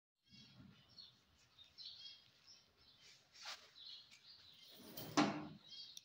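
Small birds chirping in quick, short, high notes throughout, with a louder brief burst about five seconds in.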